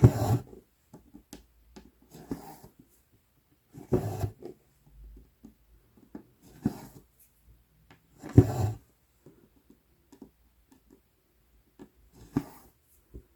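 Needle and cotton floss pulled through 11-count Aida fabric in cross-stitching: a short scratchy rustle with a soft thump at each stitch, about every two seconds.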